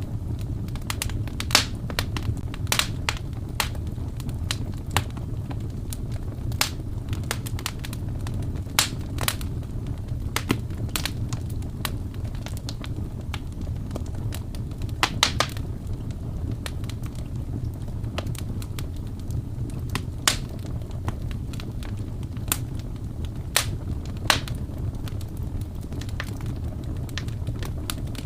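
Wood fire crackling, with irregular sharp pops and snaps over a steady low rumble; the pops come thickly at first and grow sparser later.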